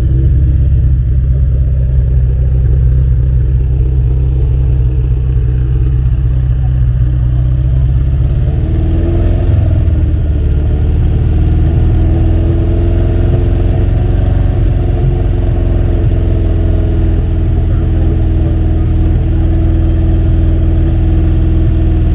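Car engine running, mostly steady like an idle. Its note shifts about eight seconds in, then rises and falls gently, as with light blips of the throttle or slow driving.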